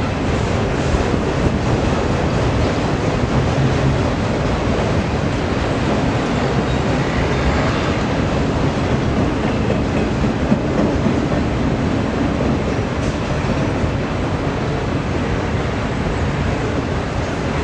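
Freight train rolling past at trackside, a steady loud rumble of wheels on rail.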